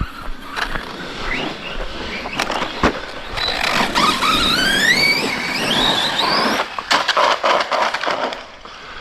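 RC monster truck's brushless electric motor whining, rising steadily in pitch for a few seconds as the truck accelerates, then cutting off, followed by a few sharp knocks.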